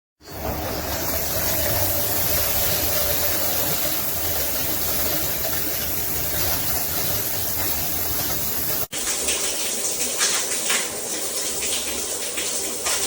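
Water streaming from a 12-inch rain shower head at full flow with no flow restrictor fitted: a steady rush of falling water. After a sudden break about two-thirds of the way through, the rush continues with irregular splashes.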